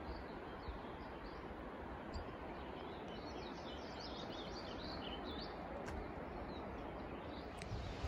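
Small birds chirping, with a quick run of short high chirps in the middle, over a steady faint hiss.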